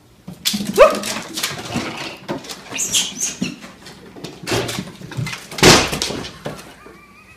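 A dog barking and yelping, mixed with knocks and clatter.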